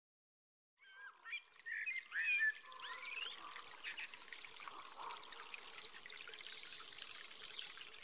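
Birds singing over a steady trickle of running water, starting just under a second in: rising and falling whistles first, the loudest part, then many quick high chirps.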